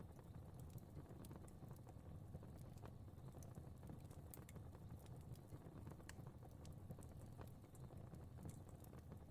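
Faint crackling fire: a low steady rumble of flames with scattered small pops and snaps at irregular times.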